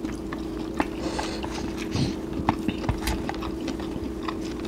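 Eating sounds: chewing and mouth noises with scattered small clicks and taps on dishes, over a steady low hum.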